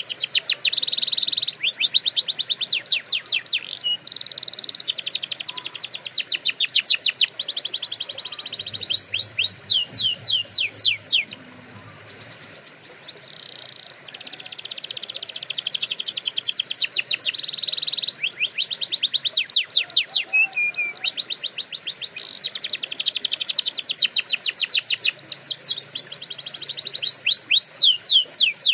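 Domestic canary singing long rapid trills of repeated high sweeping notes, one tour running into the next, with a short quieter break about eleven seconds in.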